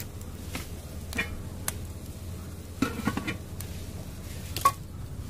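Scattered clinks and knocks of a metal cooking pot and utensils being handled: a few single strikes, a short cluster about three seconds in, and a sharper ringing clink near the end, over a steady low background noise.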